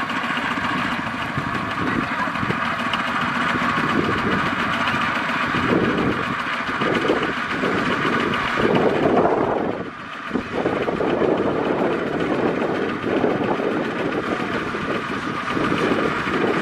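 Kubota DC-70 Plus combine harvester's diesel engine running steadily, with a brief drop in loudness about ten seconds in.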